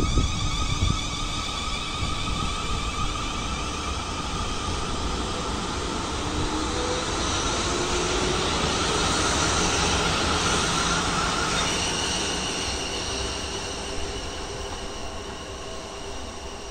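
A train passing through the station: a rumble that builds to a peak about ten seconds in and then fades, with steady high whining tones over it.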